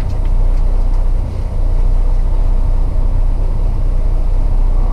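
Semi truck's diesel engine running as the truck drives, a steady low rumble with road noise.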